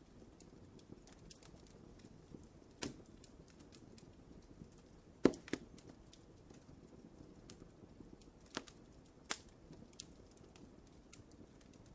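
Wood fire crackling in a fireplace: irregular pops and snaps over a soft low rush of flame, the loudest snap about five seconds in.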